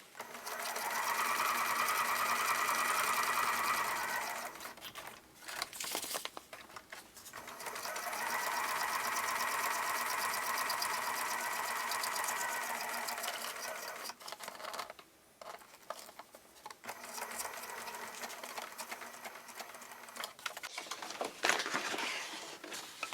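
Electric sewing machine stitching through paper journal pages in two steady runs, one of about four seconds and a longer one of about six seconds. Softer, irregular sounds follow in the second half.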